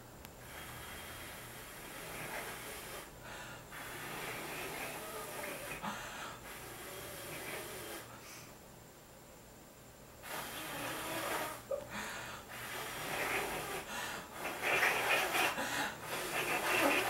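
A person blowing breathy puffs of air at a poodle puppy, with snorting breath sounds. The blowing comes in several long stretches, with a pause a little past halfway, and grows loudest toward the end.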